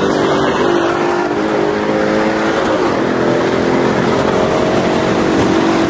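2016 Ford Mustang GT's V8 engine running under way at highway speed, heard from inside the cabin; its pitch steps up a little about halfway through.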